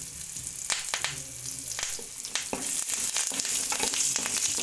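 Whole spices, garlic and ginger sizzling in a little hot oil in a pan as they are lightly roasted and stirred. Scattered sharp ticks and scrapes sound over a steady high hiss.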